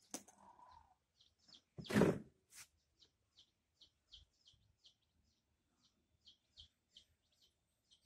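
A small bird chirping, short high falling chirps repeating about two to three times a second. A brief loud rustle comes about two seconds in.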